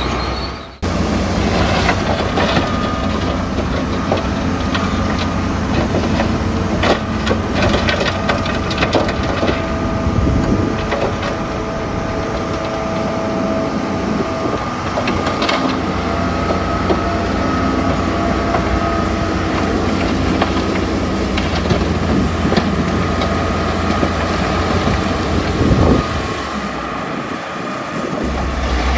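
Bulldozer's diesel engine running under load, with the steel crawler tracks clanking and squealing as it pushes mud. There is a brief break about a second in.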